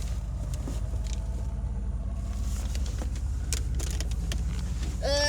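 Steady low engine rumble with an even pulsing. A brief rising vocal sound comes right at the end.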